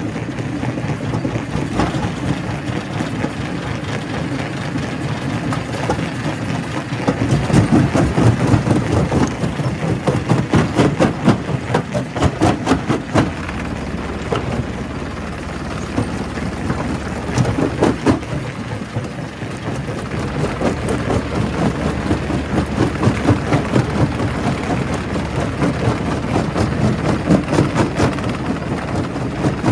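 Quarry primary rock crusher running, rocks cracking and clattering through it in irregular bursts over the steady drone of a heavy engine. The crushing is heaviest from about a quarter of the way in to about halfway, with another burst a little past halfway.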